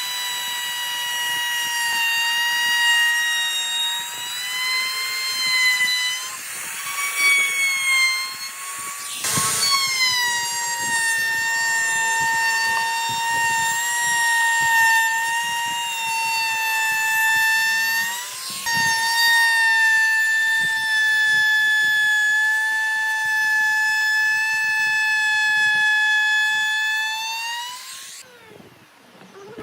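High-pitched whine of an electric power tool's motor running under load, its pitch sagging slightly and twice jumping up briefly before settling again, then cutting off near the end.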